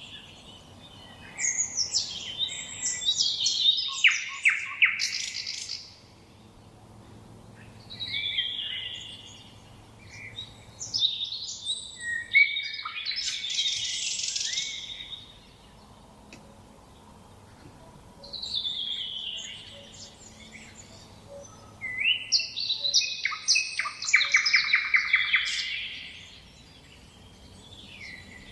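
A nightingale singing in separate phrases a few seconds long with pauses between them, mixing whistled notes with fast rattling runs of repeated notes.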